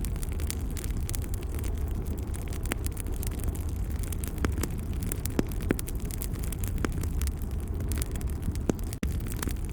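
Wood fire crackling: a steady low rushing noise with scattered sharp pops and snaps at irregular moments. It drops out for an instant near the end.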